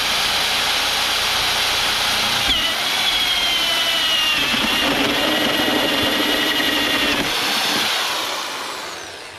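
Power tool cutting a hole through the truck body's side panel, running steadily under load, then spinning down and fading out over the last two seconds.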